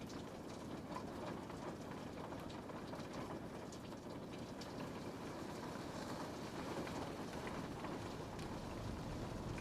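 Steady rain pattering on a window pane, a continuous hiss with scattered small drop ticks.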